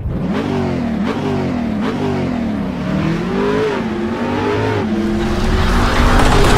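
Engine revving up and down again and again, as an intro sound effect, growing louder near the end.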